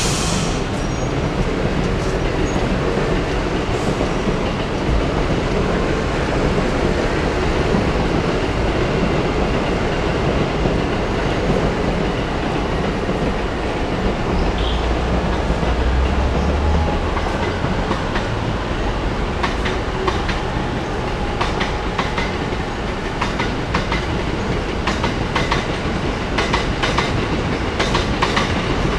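A train running past, with a steady rumble and its wheels clacking over rail joints in rapid regular clicks through the second half.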